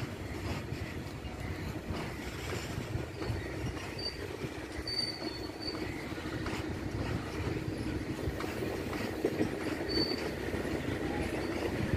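Open-top freight wagons of a long freight train rolling past: a steady rumble with wheels clicking over rail joints. A few short high wheel squeals come about four, five and ten seconds in.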